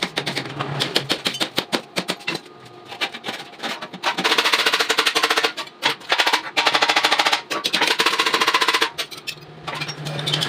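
Electric welding on a rusted motorcycle frame: a fast, even crackle with a buzz in it, coming in bursts of a few seconds with short breaks between them.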